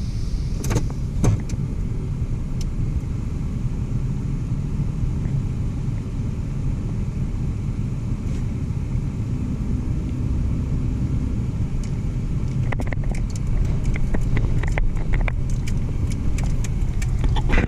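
Train passing on the main line, a steady low rumble of wheels on rail, with a run of sharp clicks in the last five seconds.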